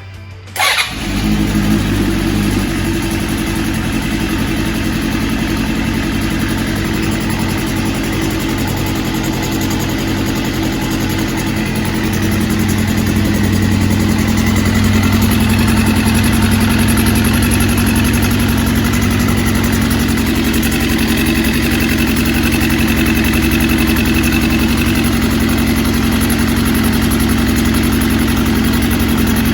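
Suzuki GSX400 Impulse four-cylinder engine, running on newly fitted Keihin CVK30 carburettors, starts with a sudden burst about half a second in and then idles steadily. Its level lifts slightly about halfway through.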